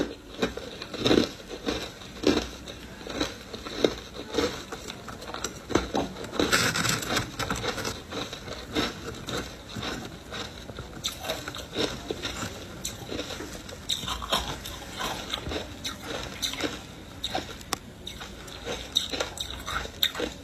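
Ice coated in matcha powder being bitten and chewed, a series of sharp crunches, about one a second at first, then a denser run of crunching from about six seconds in.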